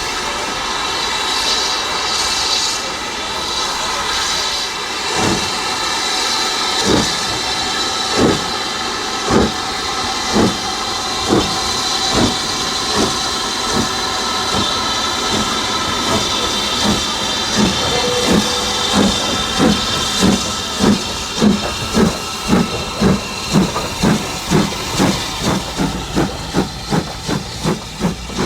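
Steam locomotive hissing steam, then starting away: its exhaust beats come slowly at first, about five seconds in, and quicken steadily to about two a second as it picks up speed.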